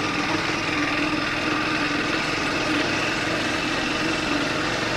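Triumph Speed 400's single-cylinder engine running at steady revs while the motorcycle is ridden, a steady engine note under road and wind noise.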